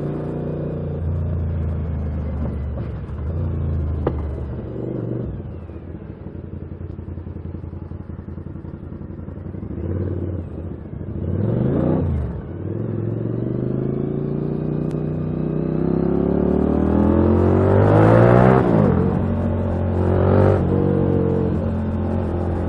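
Suzuki SV1000's V-twin engine running on the move, the revs rising and falling with throttle and gear changes: a quick dip and rise about halfway through, then a long climb in revs that drops off and rises briefly again near the end.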